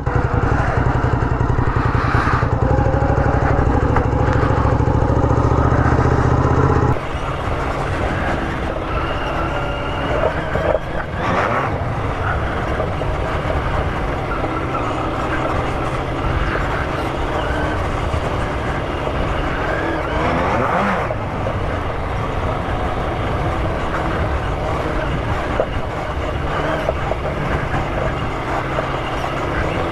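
Sport motorcycle engine running while being ridden, holding a loud steady note for about seven seconds, then changing abruptly to a quieter, rougher mix of engine and road noise. About twenty seconds in, the engine note rises and falls briefly.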